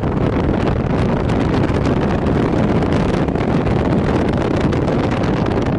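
Steady, loud wind rushing over the microphone of a moving motorcycle.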